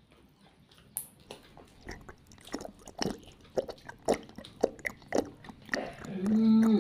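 Close mouth sounds of a man eating roast chicken: irregular wet smacking and chewing with bites into the meat, starting about a second in. Near the end comes a short hummed voice sound, the loudest thing here.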